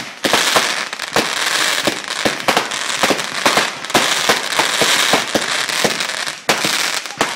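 Fireworks going off: a rapid, irregular string of sharp bangs and cracks, several a second, over a crackling hiss.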